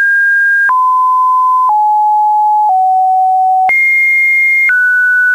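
A loud sequence of pure electronic tones, each held steady for about a second before switching abruptly to the next pitch. The tones step down three times, then jump up high and drop again.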